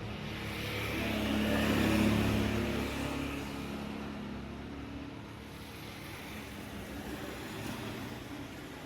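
An engine running steadily, swelling louder about two seconds in and then easing back down.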